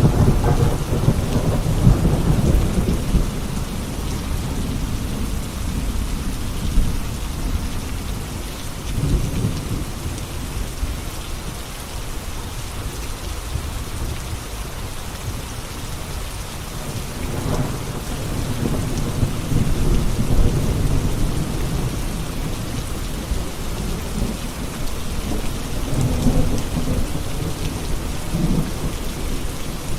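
Steady heavy rain hissing, with deep rolling rumbles of thunder swelling up several times, the longest a little past the middle.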